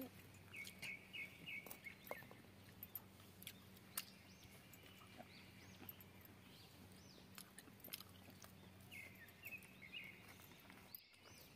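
Near silence with faint bird chirps, short runs of quick high notes about half a second in and again near the end, and a few light clicks.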